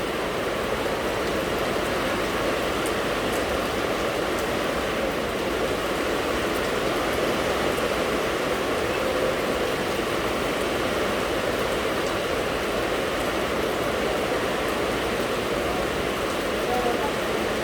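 Steady rain falling, an even rushing hiss with a few faint drop ticks scattered through it.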